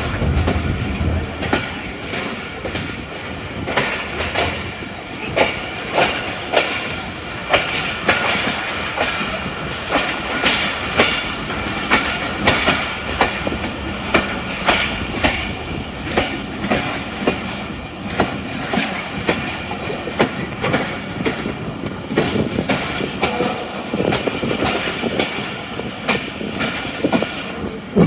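Tezgam Express train running, its wheels clicking in a steady rhythm over the rail joints.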